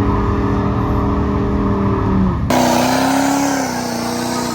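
Truck engine held at high revs, steady in pitch, dropping slightly just before an abrupt cut to a second engine. The second engine also holds high revs, climbing a little and then easing off.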